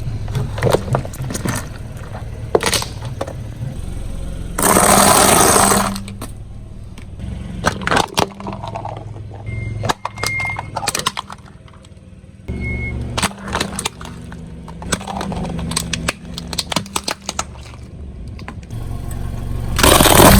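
A car tyre rolling over and crushing objects: a run of sharp cracks and crunches over the low hum of the car's engine, with two loud bursts of noise, one about five seconds in and one near the end.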